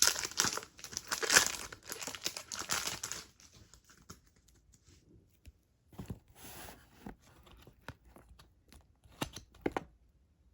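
A baseball card pack's wrapper being torn open and crinkled for about three seconds, then quieter handling of the cards, with a few scattered soft clicks and slides.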